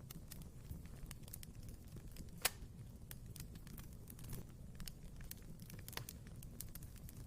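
Wood fire crackling in a fireplace: a steady scatter of small pops and snaps over the low rumble of the flames, with one sharp, louder pop about two and a half seconds in.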